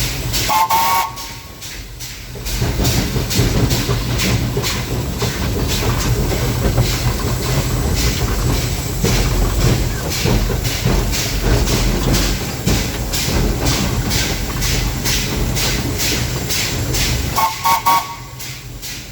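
Narrow-gauge steam locomotive GR-280 under way, heard from its cab: regular exhaust chuffs about twice a second over hissing steam and the rumble of the running gear. A brief high tone sounds shortly after the start and again near the end.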